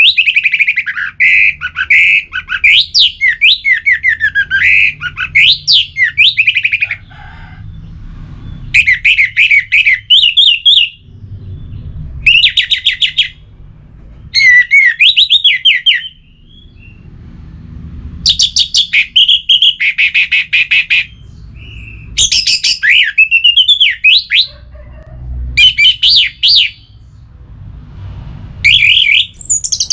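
Orange-headed thrush singing: rapid, varied whistled phrases, one long run at first and then shorter phrases with short pauses between, over a faint low rumble.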